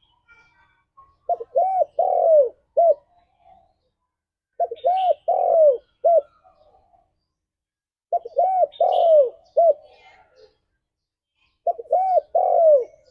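Spotted dove cooing: four phrases, one about every three and a half seconds, each a run of four short coos with a longer, drawn-out third note. Faint higher chirps of another small bird sound between phrases.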